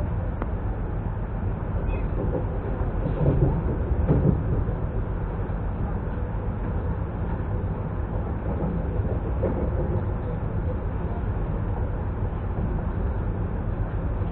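ES2G "Lastochka" electric train running, heard from inside the carriage: a steady rumble of wheels on rail, with two louder knocks about three and four seconds in.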